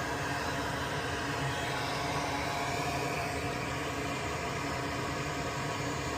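Steady whirring hiss of a small electric motor with a faint hum, running evenly without a break.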